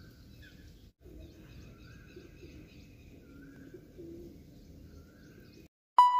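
Faint outdoor ambience with birds chirping and calling now and then. Shortly before the end it drops out and a sudden loud, bright chime sounds.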